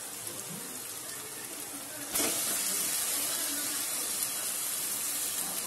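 Onions frying in hot oil in a wok, sizzling; about two seconds in the sizzle jumps suddenly louder and stays loud as onion paste is added to the hot oil.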